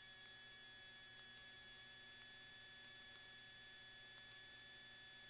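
Repeating electronic chirp in the aircraft's intercom audio: a high tone that dips sharply and glides back up about every second and a half, over a steady faint whine and hum, as the avionics and radios come up.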